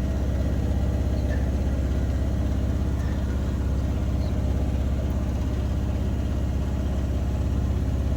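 Bosch washing machine spinning with its drum badly out of balance, the whole machine shaking with a steady, fast pulsing drone.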